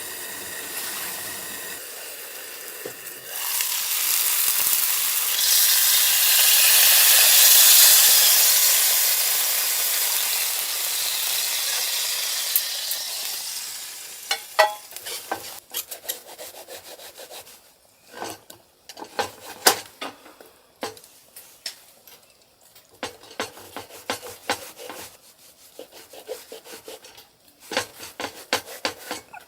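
Food sizzling loudly in a hot pan, the hiss swelling a few seconds in and dying down after about ten seconds, then a utensil scraping and clicking against the pan as the food is stirred.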